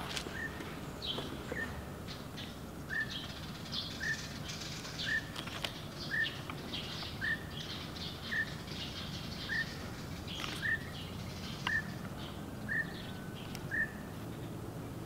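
A bird repeating a short, clipped call about once a second, with fainter, higher chirps between the calls.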